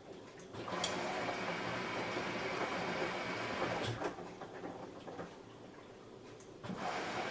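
Samsung Eco Bubble washing machine mid-wash: the drum turns with water and laundry sloshing, stops for about two seconds, then starts turning again near the end.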